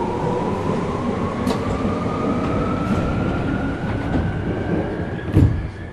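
Tokyu 2000 series electric train heard from inside the car, its VVVF inverter whine rising steadily in pitch as the train accelerates, over the rumble of wheels on the rails. A few clicks sound, and there is a loud thump about five seconds in.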